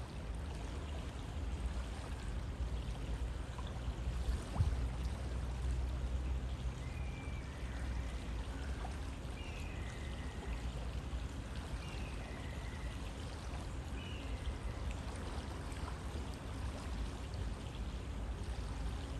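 River water flowing steadily, an even continuous rushing. A brief knock comes about four and a half seconds in, and a few faint high chirps come in the middle.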